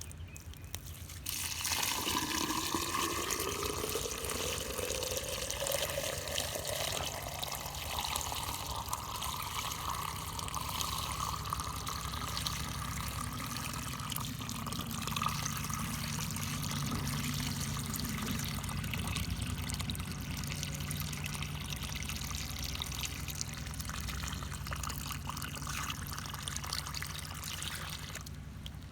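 Water pouring steadily, with a tone that rises in pitch over the first several seconds and then holds, as a hollow fills with water.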